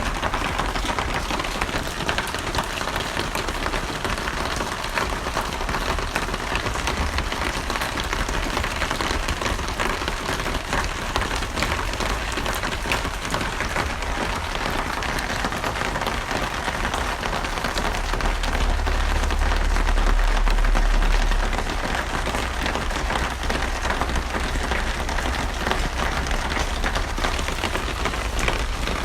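Steady heavy rain falling on a surface, an even, dense patter. A low rumble swells for a few seconds about two-thirds of the way through.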